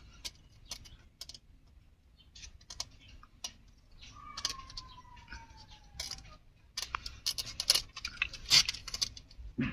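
Scattered light clicks and scratchy taps of Siamese kittens shuffling and clambering about, thickening in the second half, with a faint thin tone sliding down in pitch about four seconds in.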